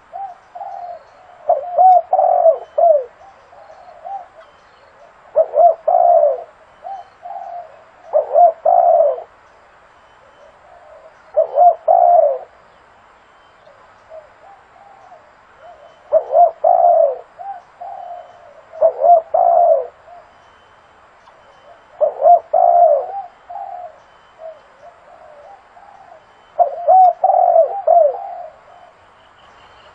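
Spotted dove cooing: a phrase of several low hooting notes repeated every few seconds, the call used as a lure for trapping doves.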